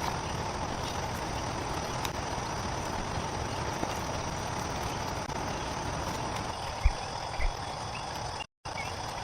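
Steady rainforest ambience of insects, an even hiss with a few constant high tones, broken by two low thumps about half a second apart near the end. The sound cuts out for a moment just before the end.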